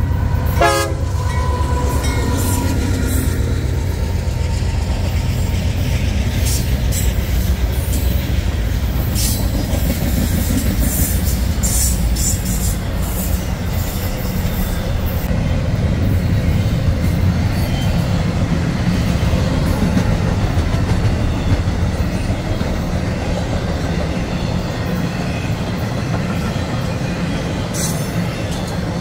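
CSX intermodal freight train passing close by. The single lead diesel locomotive's horn ends about a second in. Then the locomotive and a long string of intermodal container cars rumble past, their wheels clicking over the rail joints, easing slightly toward the end.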